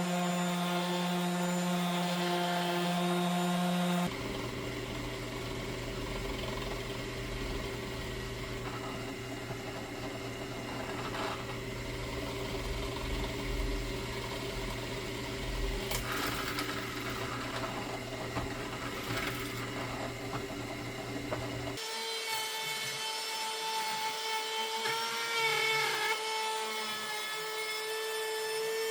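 Woodworking power tools running and cutting wood, in three stretches with a different steady motor hum in each. In the last stretch the hum dips in pitch briefly a few seconds from the end.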